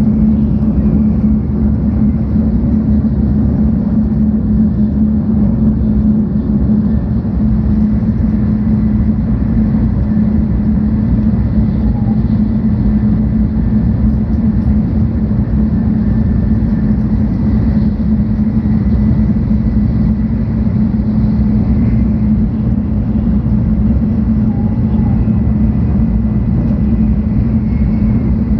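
Steady interior running noise of a 700-series Shinkansen car travelling at speed: a constant low rumble from the wheels and track with a faint high whine above it.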